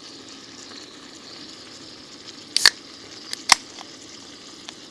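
Steak and vegetables frying in a pan with a steady sizzle, broken a little past halfway by two sharp clicks a little under a second apart.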